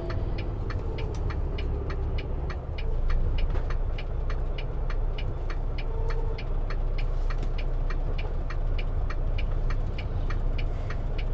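Inside a semi truck's cab at highway speed: a steady low rumble of engine and road, with a regular light ticking about four times a second.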